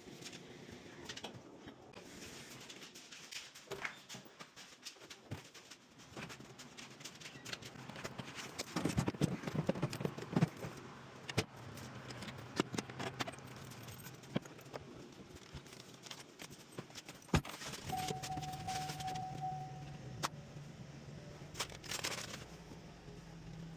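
Irregular clinks, rattles and scrapes of hard objects being handled, busiest around the middle. A low steady hum comes in about 18 seconds in, joined for about two seconds by a short steady tone.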